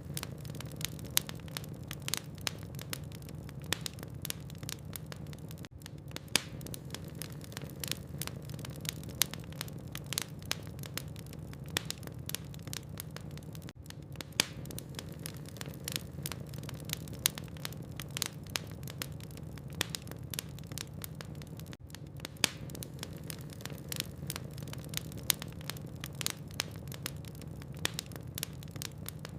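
Burning logs in a fireplace crackling, with many irregular sharp pops and snaps over a low steady hum. There are short lulls about every eight seconds.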